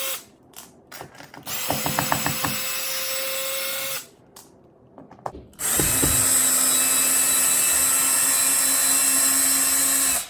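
Cordless drill/driver running in short bursts: a run of about two seconds with a few clicks near its start, then a longer steady run of about four and a half seconds at a lower pitch. It is backing out the screws that hold the floor outlet box in the floor.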